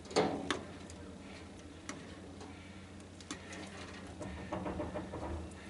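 Scattered light clicks and knocks of parts and tools being handled while a tanning bed is taken apart, the sharpest ones just after the start, with a low rumble in the second half.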